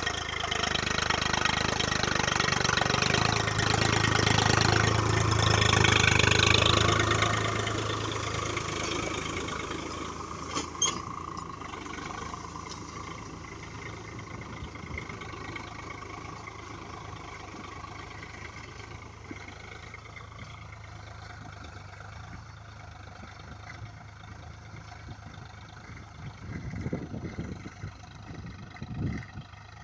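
Swaraj 742 XT tractor's three-cylinder diesel engine running steadily. It is loudest for the first several seconds, then fades gradually, with a single click about eleven seconds in and wind gusting on the microphone near the end.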